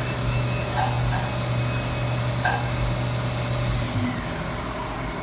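Fadal VMC 4020 CNC vertical machining center running a drilling cycle at slowed rapid: a steady machine hum with a few light ticks. The hum drops off about four seconds in, along with a faint falling whine.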